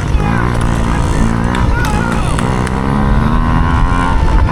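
Small dirt bike engine revving hard, its pitch climbing and falling back several times.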